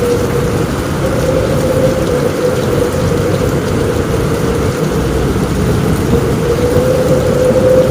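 Steady, dense rain drumming on a roof, with a low rumble underneath.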